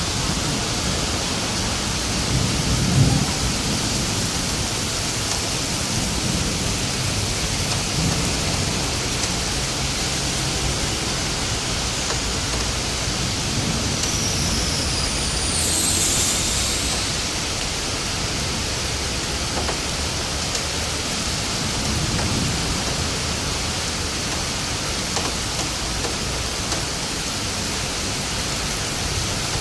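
Heavy rain pouring steadily during a severe thunderstorm, with low rolls of thunder, the loudest about three seconds in and weaker ones later. A brief high gliding whistle sounds about halfway through.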